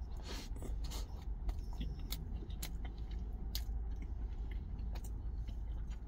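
A man biting into and chewing a soft, thick rye-bread egg-mayo sandwich, with short wet mouth clicks. A steady low rumble runs underneath.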